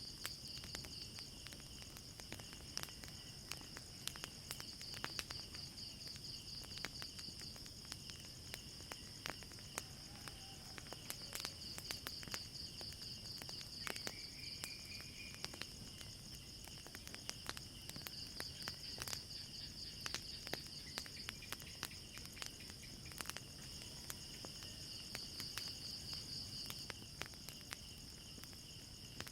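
Night insects chirping in a steady, high, pulsing trill, with scattered sharp crackles and pops of a wood fire.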